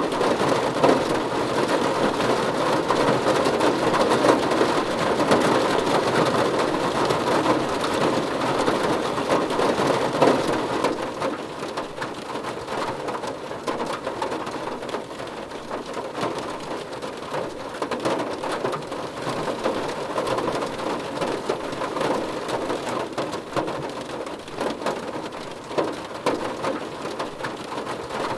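Steady rain falling, a dense patter of drops on a surface; it eases a little about eleven seconds in.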